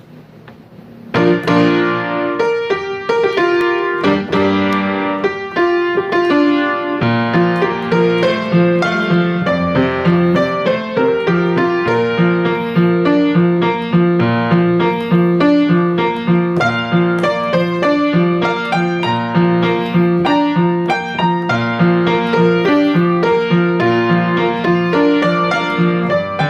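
Piano music that starts about a second in and plays on steadily: a flowing run of notes over a repeating bass figure.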